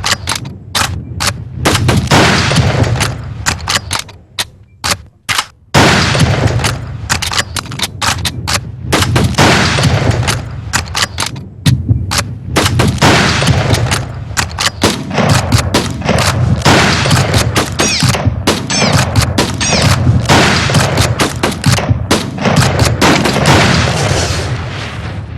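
Heavy shotgun fire from several guns at once, shots coming fast and overlapping, with a short lull about four to six seconds in: high-volume waterfowl shooting.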